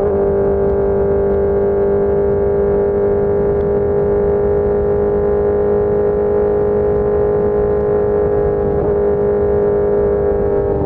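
Suzuki GSX-R600 K4 inline-four through an SC-Project S1 race exhaust, running under way and held at a steady engine speed. It gives a constant, even-pitched drone with no change in revs.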